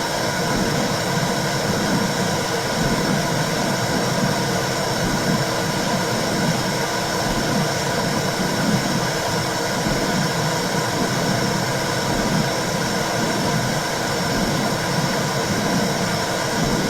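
Womb sound: a steady whooshing hiss with a low pulsing swell repeating about every second and a half.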